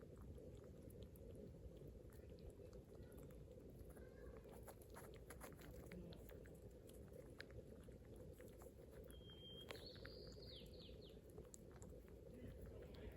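Near silence: faint outdoor ambience with a steady low hum, scattered small clicks, and a brief high chirp about ten seconds in.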